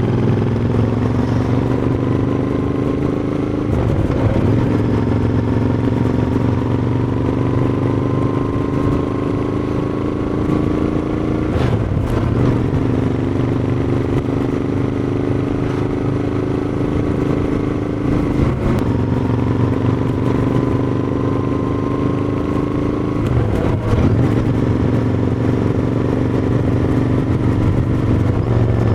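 Royal Enfield Interceptor 650's parallel-twin engine and exhaust under way, its pitch climbing slowly through each gear and dropping sharply at four upshifts.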